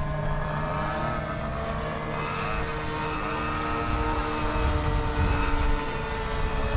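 Several radio-controlled model airplanes flying past together, their engine whines overlapping and sweeping up and down in pitch as they pass.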